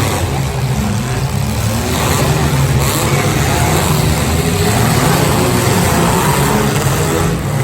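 Demolition derby cars' engines running and revving together, a loud, continuous jumble of engine noise.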